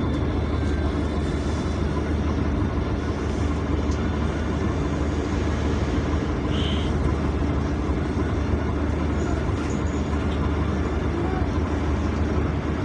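A PAZ-422320-04 Citymax 9 city bus heard from inside while riding: a steady low engine drone with road and cabin noise, and a brief high-pitched beep or squeak about six and a half seconds in.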